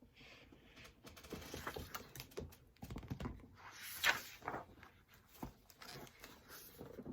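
Faint handling sounds of a picture book: a string of soft clicks, taps and paper rustles as it is held and a page is turned.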